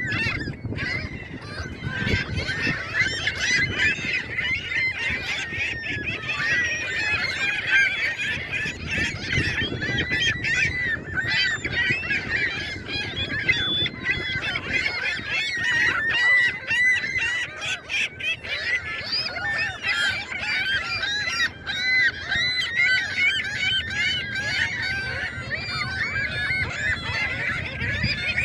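A large flock of geese honking continuously, many calls overlapping at once.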